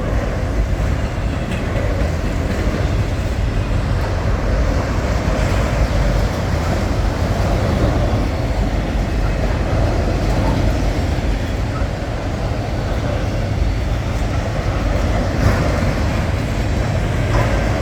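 Freight train's diesel locomotive running with a steady low rumble as the train starts to move.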